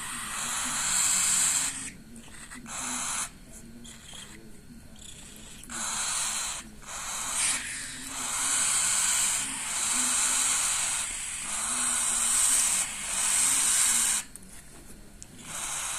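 Parrot chicks hissing in repeated bursts about one to two seconds long, with short breaks between.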